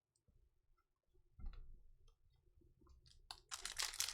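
Faint clicks and taps of trading cards being handled, then a rustling crinkle of packaging starts about three seconds in.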